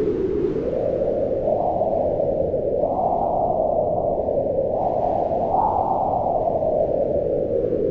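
Strong mountain wind howling in a blizzard: a steady rush of noise whose hollow pitch swells up and falls back in slow gusts.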